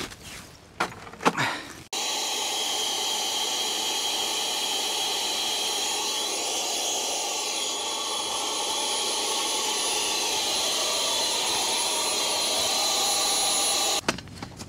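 Electric air pump inflating an inflatable tent: it switches on abruptly about two seconds in, runs with a steady whirring hiss, and cuts off suddenly near the end. A few knocks and steps on ice come before it starts.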